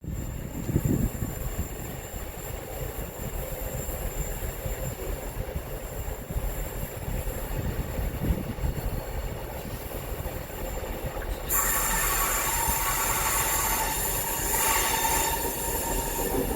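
A train rolling past with its steel wheels squealing on the rails over a steady rumble. A thin, high squeal is heard first, and about two-thirds of the way through it turns louder and harsher, with a second, lower squeal.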